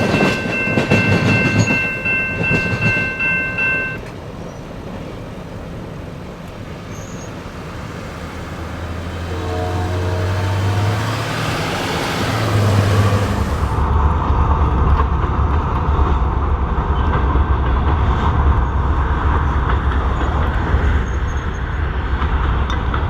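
Diesel locomotive horn sounding a steady multi-note chord that cuts off about four seconds in. Then a CP GP20C-ECO's diesel engine climbs in pitch around ten seconds in and settles into a loud, steady low drone as the locomotive works under load.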